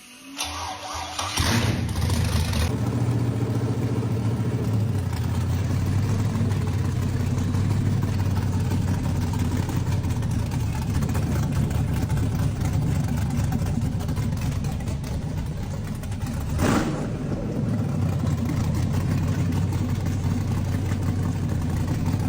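Cammed GM 5.3 V8 cranking briefly, catching after about a second and a half and flaring up, then settling into a steady idle. There is a short louder burst about seventeen seconds in.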